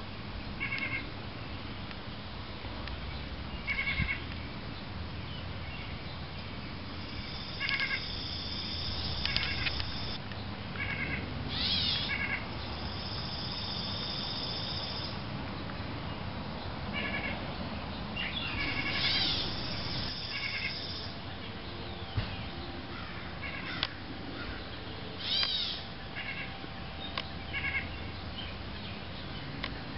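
Birds calling: short pitched calls in clusters of two or three every few seconds, with a high steady buzz coming and going a few times, over steady background noise.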